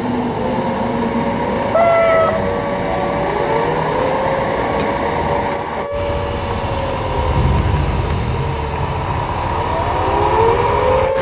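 Emergency-vehicle siren wailing, its pitch slowly rising and falling, with a short horn blast about two seconds in and a low engine rumble from a passing vehicle near the middle.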